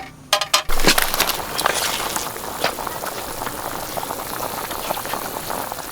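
A few clicks, then a crackling hiss starts suddenly about a second in and keeps going, dense with small pops: food sizzling in a hot pan.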